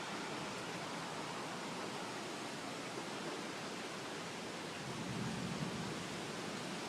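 Steady wind noise from an approaching thunderstorm, with a low rumble swelling about five seconds in.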